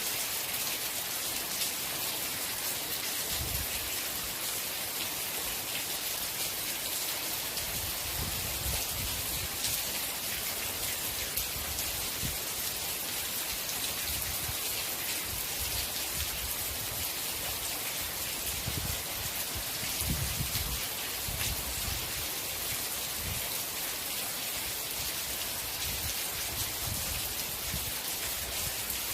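Steady rain falling, a dense hiss of drops on a surface, with irregular low rumbling swells.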